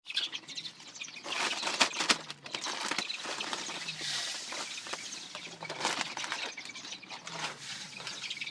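A flock of broiler chickens at feeding time: many scattered small taps and rustles with occasional soft calls.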